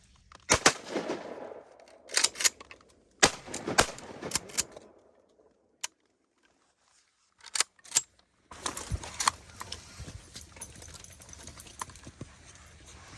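A string of shotgun blasts from duck hunters firing at passing ducks: sharp cracks, some in quick pairs, over the first few seconds, then two more after a brief dead silence. Outdoor background noise fills the rest.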